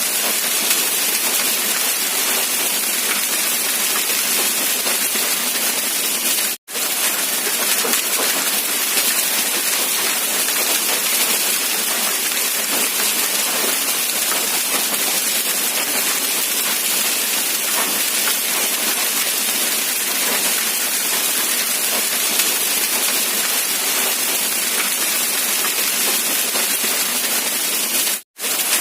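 Rain falling steadily as a constant hiss. It cuts out to silence for an instant twice: about six and a half seconds in and again near the end.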